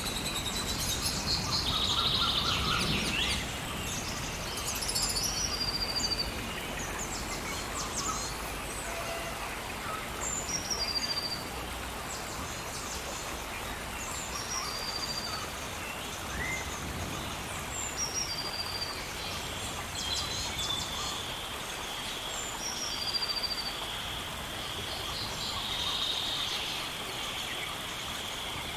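Rainforest ambience: a steady hiss of rain with birds calling in short, repeated chirps. About two-thirds of the way in, a steady high-pitched drone joins and holds.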